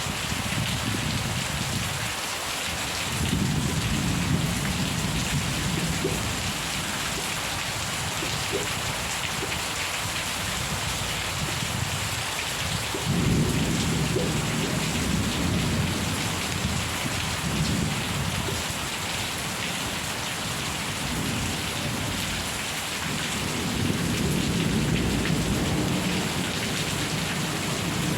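Steady rain with rolling thunder rumbling low several times, the strongest roll starting about halfway through.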